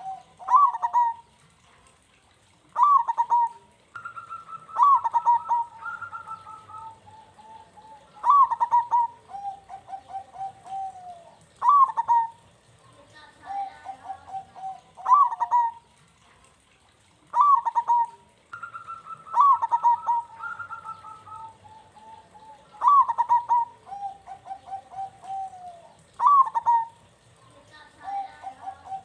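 Zebra doves (perkutut) cooing: short, sharp coos near 1 kHz repeat about every three seconds, with longer rolling, trilled coo phrases between them. At times two phrases overlap.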